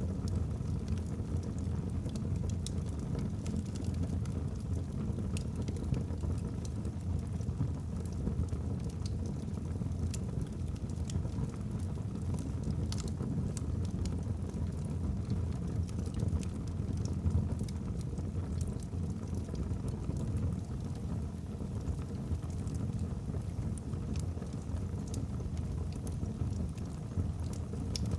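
Wood fire burning in a fireplace: a steady low rumble from the flames with scattered sharp crackles and pops from the burning logs.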